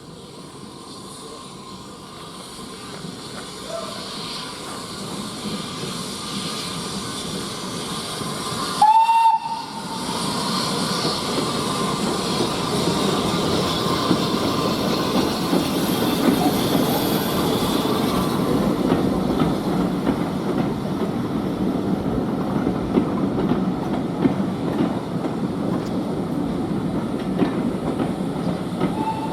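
Small industrial well-tank steam locomotive working a short goods train, its running noise growing steadily louder as it draws closer. It gives one short high toot on its whistle about nine seconds in, then runs on steadily with the wagons, with a faint second brief toot near the end.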